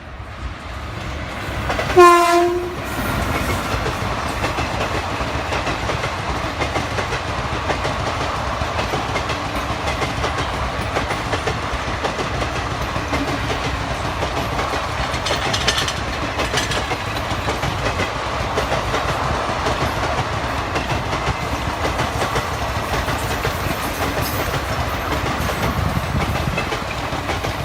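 Indian Railways train: its horn sounds once, briefly, about two seconds in, then the wheels rumble and clatter over the rail joints at a steady level as the train runs past.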